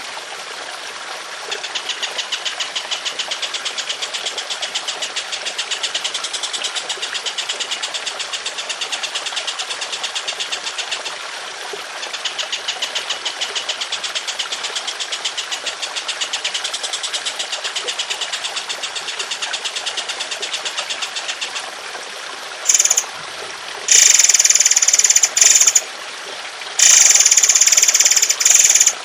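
Songbird calls for bird training: two long, fast, rattling trills of evenly repeated notes, followed by several loud, harsh bursts near the end. Trickling water runs underneath.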